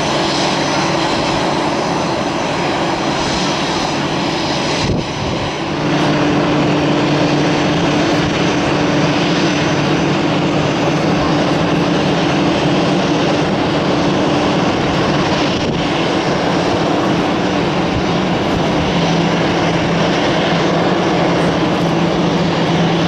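Jet airliner engines running loud and steady, a dense roar with a low hum, briefly dipping about five seconds in.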